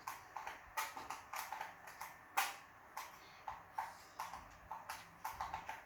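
Irregular sharp taps and knocks, a few a second, with one louder knock about two and a half seconds in.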